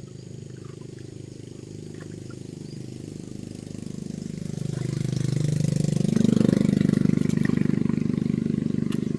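An engine running with a low, pulsing note, growing louder about halfway through and then holding.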